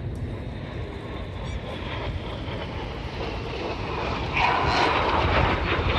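BAE Hawk jet engines of display jets flying past: a jet whine falls slowly in pitch, then the jet noise swells louder from about four and a half seconds in as the aircraft come closer.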